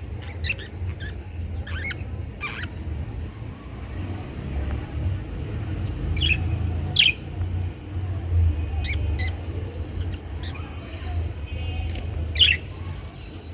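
Budgerigars chirping in short, scattered calls over a steady low rumble.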